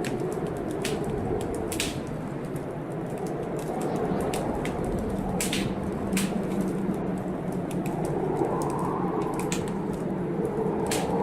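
Wood fire crackling in a fireplace, with sharp, irregular pops several times a second. Underneath runs the steady low noise of a storm, which swells about eight seconds in.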